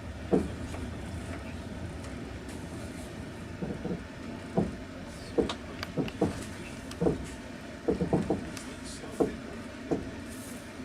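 Passenger train running on rails, heard inside the carriage: a steady low rumble with sharp clacks of the wheels at uneven intervals, several coming close together about eight seconds in.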